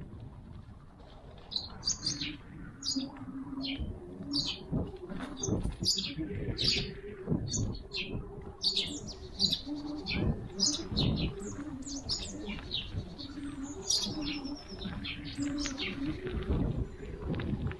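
Woodland songbirds chirping and singing in a steady stream of short, quick high notes, with a low cooing from a pigeon underneath and some low rumbling.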